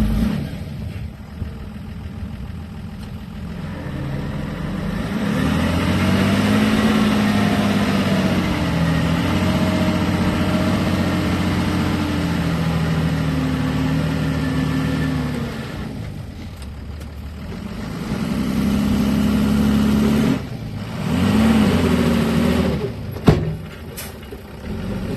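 A heavy vehicle's engine running and revving. Its pitch climbs and falls several times, and it is loudest for a long stretch in the middle. There is a sharp click near the end.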